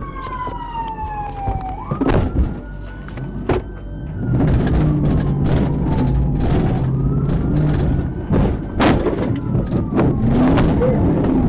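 Police car siren wailing in long falling and rising sweeps. From about four seconds in, a car engine runs hard beneath it, and there are several sharp knocks.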